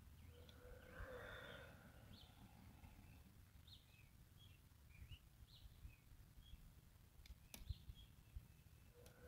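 Faint outdoor quiet with scattered short bird chirps over a low rumble, and one sharp click about seven and a half seconds in.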